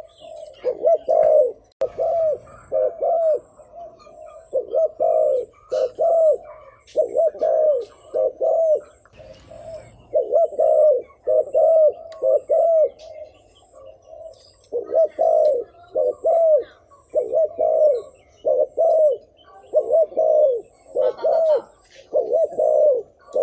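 Spotted dove cooing: phrase after phrase of short, arched coos, with brief pauses between the runs.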